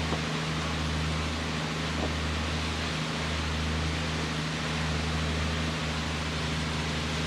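Ferry's diesel engines running: a steady low hum with a deep rumble that swells and fades about once a second, under an even hiss.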